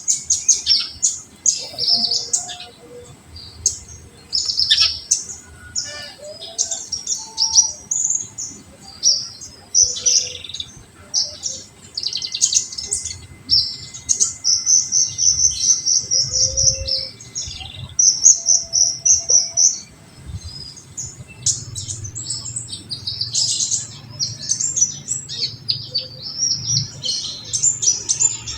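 Sunbird (konin) singing a dense run of high, rapid chirps and trills, with rattling 'tembakan' burst phrases. This is the kind of song played as a lure to provoke a rival bird to sing.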